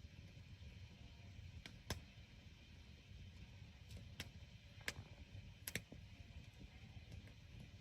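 Near silence with a handful of scattered, sharp clicks at uneven intervals.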